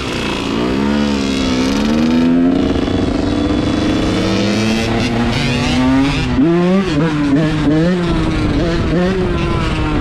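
Dirt bike engine revving. The pitch climbs and falls gradually at first, then, from a little past halfway, goes up and down in a run of short, quick throttle blips.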